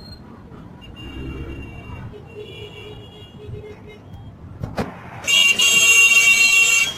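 Road traffic with vehicles running, then a click about five seconds in and a much louder, bright, pitched sound that cuts in abruptly.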